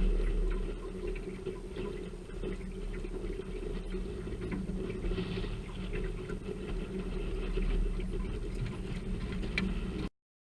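Rain pattering on an aluminium fishing boat, a dense spray of small ticks over a steady low hum. The sound cuts off suddenly near the end.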